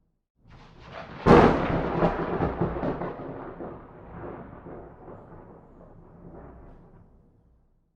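A thunderclap: a short building rumble, a sudden sharp crack about a second in, then rolling thunder that fades away over several seconds.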